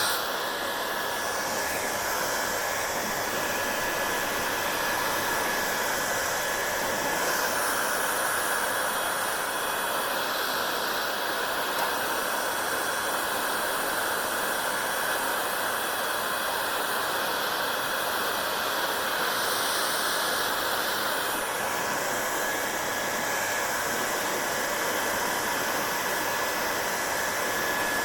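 Hand-held hair dryer running steadily: a constant rush of blown air with a faint steady whine, the hiss shifting in tone a few times.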